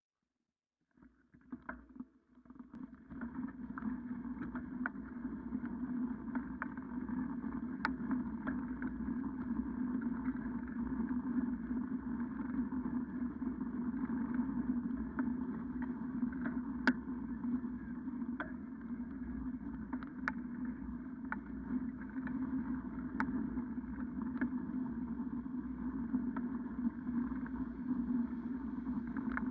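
Steady rushing and rumbling noise of a bicycle being ridden, sprinkled with sharp clicks and rattles; it starts about a second in after a moment of silence.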